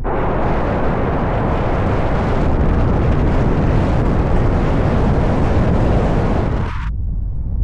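Waterfall's falling water, a steady loud rush of white noise that cuts off suddenly about seven seconds in, leaving a low wind rumble on the microphone.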